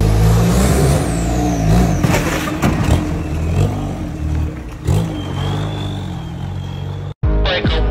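Car engine revving loudly, its pitch rising and falling, with a high whine sweeping up and down over it near the middle. It cuts off suddenly about seven seconds in.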